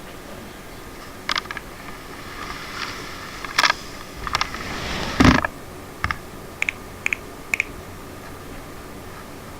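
A run of scattered sharp clicks and taps, about eight in all, with a heavier knock about five seconds in.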